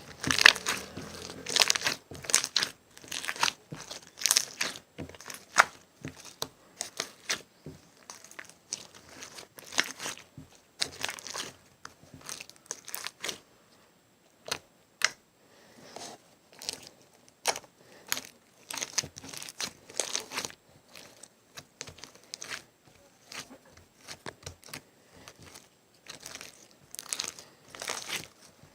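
Slime being squeezed, stretched and folded by hand close to the microphone, giving off dense, irregular crackling clicks and pops in uneven bursts.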